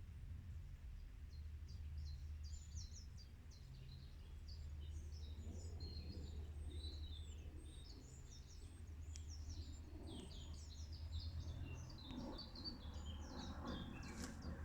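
Birds singing, many quick chirps and trills overlapping, over a steady low rumble.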